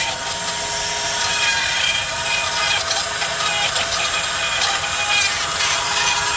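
A power tool running steadily with a constant whine, cutting and scraping at metal.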